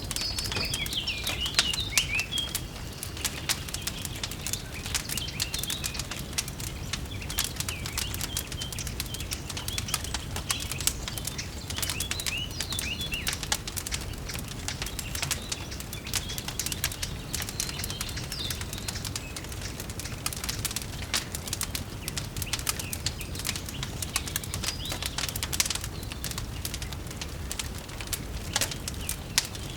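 Wood fire crackling with many small snaps over a steady low rumble, while birds chirp now and then, most in the first couple of seconds.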